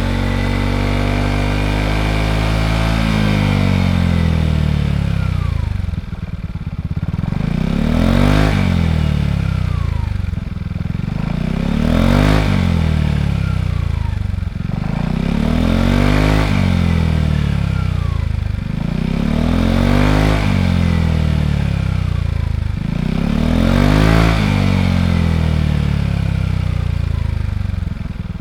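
Yamaha XMAX scooter's single-cylinder four-stroke engine through a Yoshimura Cyclone slip-on muffler. It runs steadily for a few seconds, then is revved up and let back down over and over, about once every four seconds.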